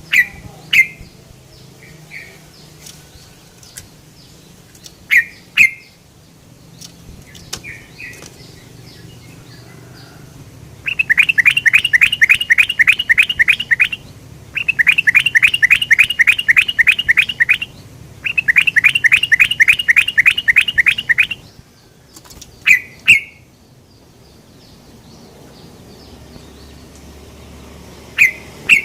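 Yellow-vented bulbul (trucukan) calling: paired short 'cuk' notes several times, and in the middle three runs of rapid repeated notes, each about three seconds long and the loudest part, used as a lure call for other trucukan.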